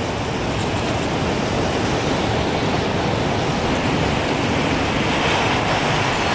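Strong gusting wind as a steady rushing noise, swelling a little toward the end, when the first faint tinkles of a wind chime come in.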